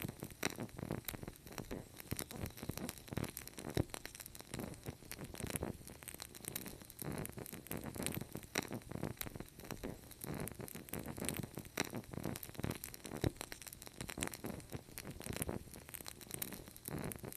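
Fireplace wood fire crackling: a continuous run of dense, irregular snaps and pops over a soft low rush.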